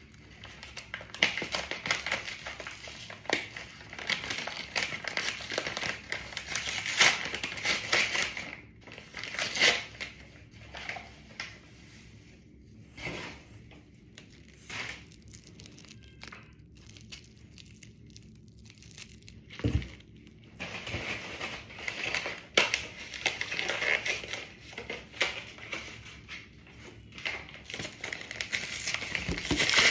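Packaging crinkling and rustling as a box of plants is unwrapped, in irregular bursts. There is a quieter stretch in the middle and a single thump about two-thirds of the way through.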